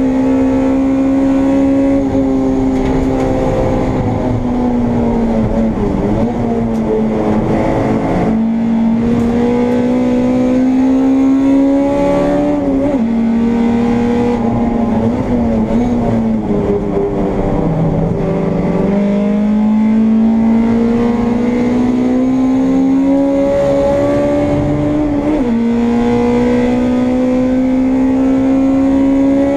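Honda Integra race car's four-cylinder engine at high revs, heard from inside the car at racing speed: the note climbs through each gear and drops sharply at every upshift. About two-thirds of the way through it falls away for a couple of seconds, as under braking and downshifting, then climbs again.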